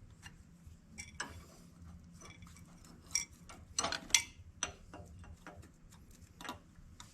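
Hand tools working on fasteners of a tractor: a run of irregular small metallic clicks and knocks, with a louder cluster about three to four seconds in.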